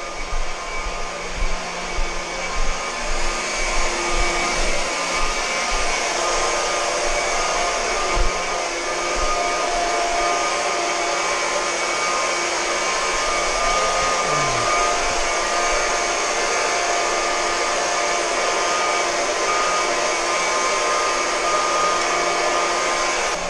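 Water rushing steadily out of an open drain as the heating system and water heater are emptied, a loud, even rush with a few faint low thumps in the first seconds.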